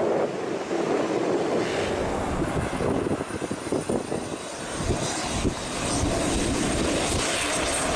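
Aircraft engine noise: a steady rumble with a faint high whine that comes in a few seconds in and sinks slowly in pitch.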